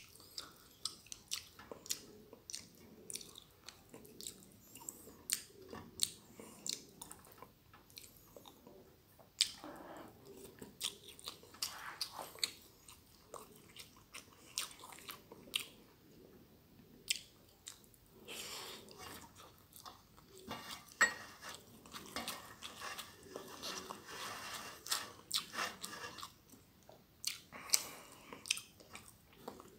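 Close-miked chewing of a mouthful of stir-fried glass noodles with goat meat: wet mouth clicks and smacks over and over, busier in the second half.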